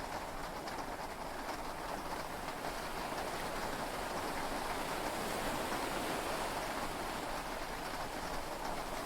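Heavy rain falling on a yacht, heard from inside the cabin as a steady hiss that swells slightly in the middle.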